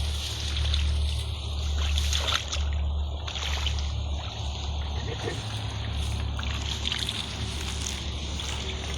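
Water splashing and sloshing in short, irregular bursts, over a steady low hum.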